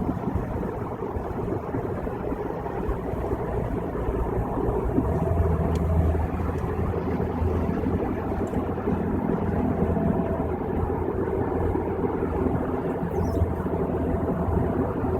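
Car cabin noise on a freeway drive: a steady drone of tyres and engine, with a low hum that grows louder for a few seconds about five seconds in.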